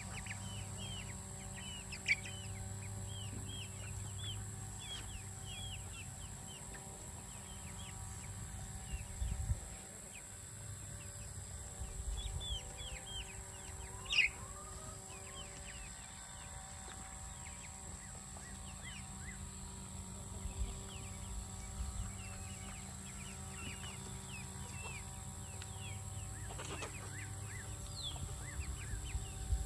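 Young barnyard chickens peeping: a steady run of short, high chirps, with one louder call about fourteen seconds in. A few low bumps sound in the middle.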